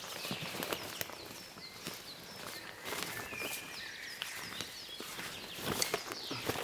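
Footsteps and rustling on the forest floor as gear is handled, scattered sharp clicks and knocks, with many short, high, downward-gliding bird chirps repeating in the background.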